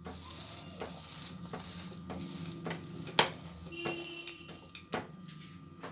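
Bread sandwich frying in a little oil on a grill pan, with a steady sizzle. A wooden spatula taps and scrapes against the pan as the sandwich is turned and pressed down, with one sharp knock about three seconds in.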